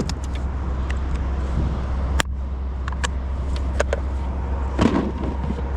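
Steady low rumble of wind on the microphone, with scattered light clicks and knocks.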